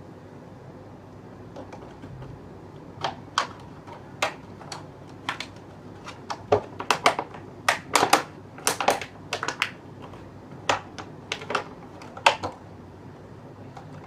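Plastic bottle being worked by hand: a run of sharp, irregular clicks and crackles, thickest around the middle, with a steady low background hiss.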